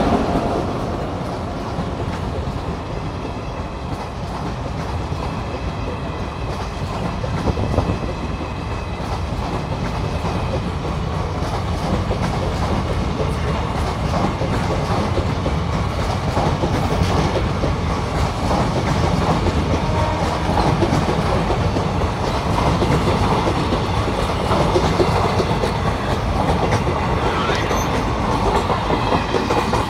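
Passenger coaches of an express train running past close by: a steady rumble with rapid clatter of the wheels on the rails.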